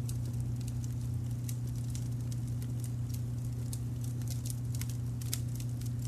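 Wood fire crackling, with irregular small snaps and pops scattered throughout, over a steady low rumble of brown noise.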